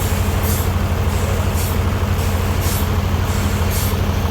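Sawmill machinery running steadily with a deep engine hum, and a short high hiss about once a second.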